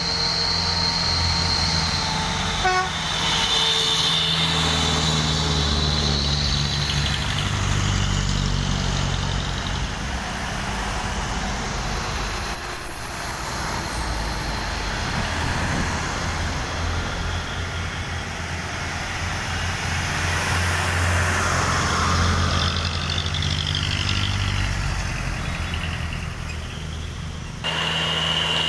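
Heavy trucks' diesel engines running as they drive past in a line, a steady low rumble, with a held horn-like tone in the first couple of seconds.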